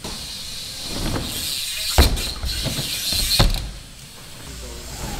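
BMX bike on a wooden skatepark floor: its freewheel ticks and its tyres hiss as it rolls, with two sharp knocks of the bike coming down on the wood, about two seconds in and again a second and a half later.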